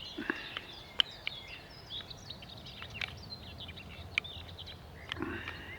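Birds singing outdoors: many short chirps and whistles from several birds, over a steady low hum, with a few sharp clicks.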